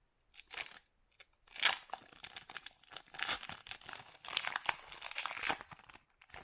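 Plastic foil wrapper of a basketball trading-card pack being torn open and crinkled, in irregular crackling bursts that stop just before the end.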